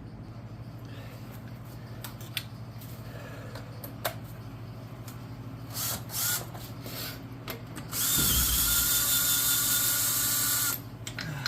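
A handheld power tool runs steadily for about three seconds, then cuts off sharply. Before it there are scattered clicks and knocks of tools being handled.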